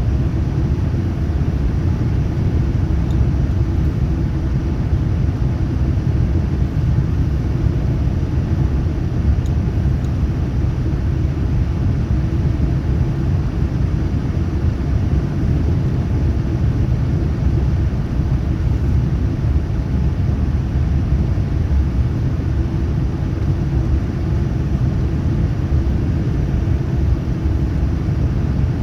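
Steady, low rumble of cabin noise aboard a Boeing 787-9 Dreamliner: airflow and its Rolls-Royce Trent 1000 engines, heard from inside the cabin, unchanging throughout.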